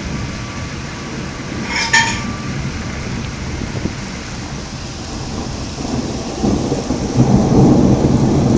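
Steady rain during a thunderstorm, with a low rumble of thunder swelling in about six seconds in and growing to the loudest part near the end. A brief sharp high-pitched sound comes about two seconds in.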